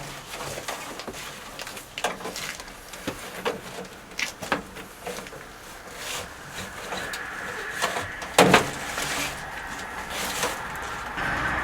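Scattered clicks, taps and knocks of a door speaker and door trim panel being fitted back by hand, with one louder knock about eight and a half seconds in. A steady hum comes in during the second half.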